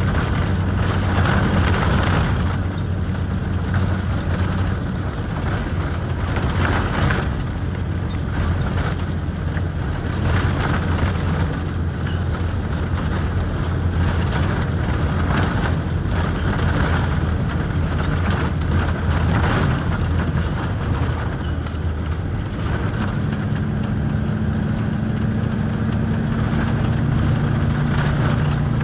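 Truck engine running steadily. Near the end its pitch rises and holds higher, as when the engine speed is raised.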